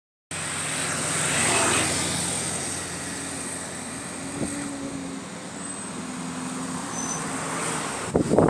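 Diesel engine of a London double-deck bus running with a steady hum and a thin high whine, swelling about a second in. Near the end, loud rapid chuffing pulses break in: the sound of a leaking exhaust.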